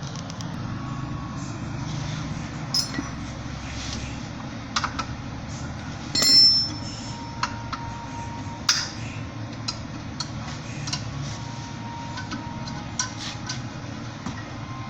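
Light metallic clicks and clinks of tools and brake parts being handled, with one louder ringing clank about six seconds in and another near nine seconds, over a steady low rumble.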